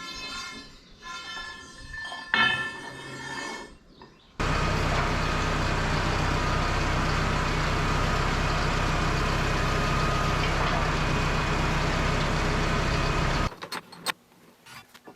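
Several seconds of steady pitched, chiming tones. Then a loud, steady machine noise with a low hum starts abruptly about four seconds in and cuts off suddenly near the end.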